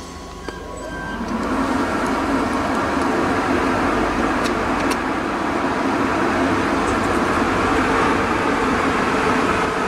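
DB Class 143 electric locomotive hauling double-deck coaches, rolling toward the platform at low speed. The steady rumble of wheels on rails and the locomotive's running noise build about a second in and then hold.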